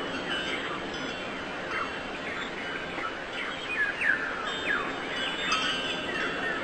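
Many small birds chirping, a busy stream of short, quick downward-sliding calls over a steady background hiss.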